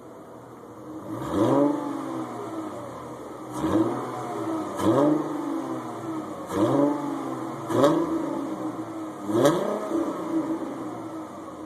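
Mercedes CLK 32 AMG's supercharged V6 blipped from idle six times, each rev climbing quickly and dropping back, through an exhaust with the secondary catalytic converters and resonator removed.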